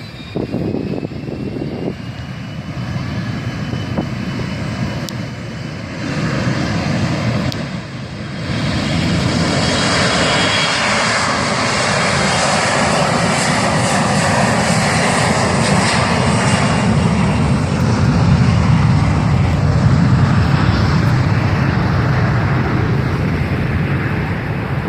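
Airplane engines of a landing aircraft, rising sharply in loudness about eight seconds in and staying loud, with a tone in the noise slowly falling in pitch.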